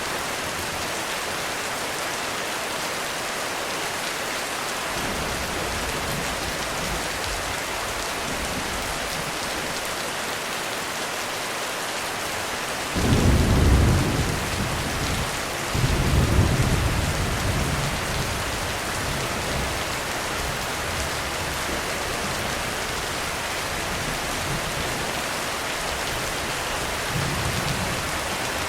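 Heavy rain falling steadily in a thunderstorm. About halfway through, thunder breaks suddenly, a second peal follows a few seconds later, and both rumble away over several seconds. Fainter distant rumbles come earlier and again near the end.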